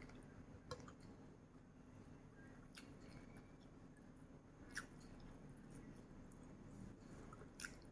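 Near silence: a faint steady low hum, with four soft clicks spread across it.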